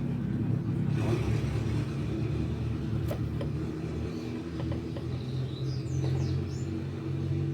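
A steady low mechanical rumble, with a few light clicks of small metal starter-motor parts being handled and a few short high chirps about six seconds in.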